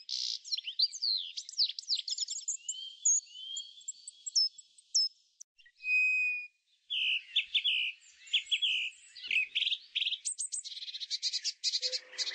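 Birds chirping and singing: quick whistled slurs and chirps, a held whistle about six seconds in, and fast rapid trills toward the end.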